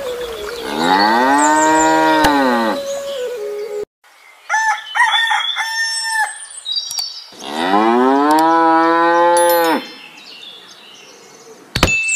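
A cow mooing twice, each a long call of about two seconds that rises and then falls in pitch, with shorter higher calls between the two moos and a sharp knock near the end.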